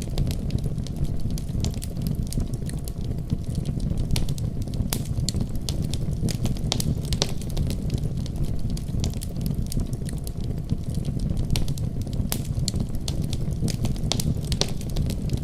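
Fireplace fire crackling: irregular sharp pops and snaps over a steady low rumble of the burning flames.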